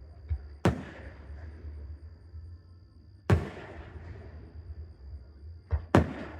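Aerial firework shells bursting: three loud booms about two and a half seconds apart, each trailing off in a rumbling echo, with a smaller pop just before the first and last.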